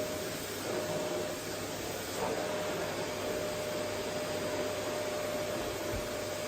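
Vacuum cleaner running steadily: an even rushing noise with a constant whine held at one pitch.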